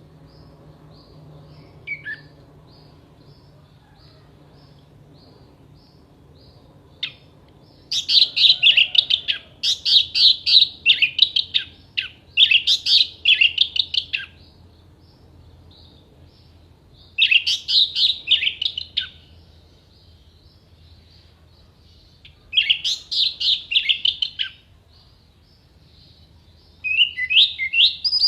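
Orange-headed thrush singing in bouts of rapid, sharp, varied notes: four bursts of song separated by pauses, the first starting about eight seconds in. A faint, evenly repeated short note runs under the quieter stretches.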